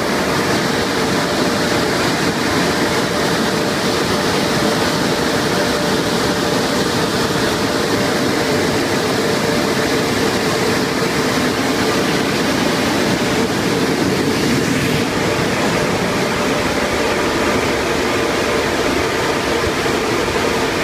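MacNeil Tech 21 car wash dryer blowers running: a loud, steady rush of air with a constant hum.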